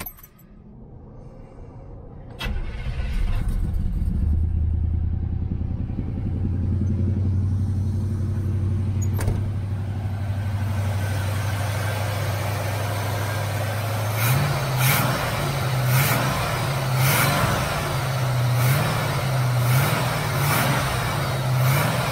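Chevy 350 small-block V8, running on a new knockoff Rochester Quadrajet four-barrel carburetor, cranks and catches about two seconds in. It then runs steadily on its cold high idle. In the second half the engine note rises and pulses slightly about once a second.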